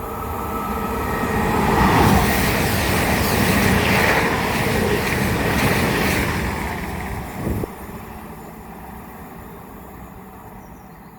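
A pair of coupled Class 220 Voyager diesel multiple units passing through on the main line. The engine and wheel noise swells to a peak about two seconds in, holds for several seconds, then fades away, with a short thump about seven and a half seconds in.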